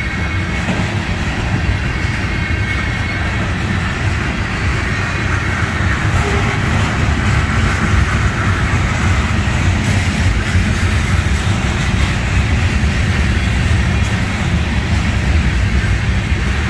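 Freight cars loaded with trash containers rolling past at close range: a steady, loud rumble of steel wheels on the rails.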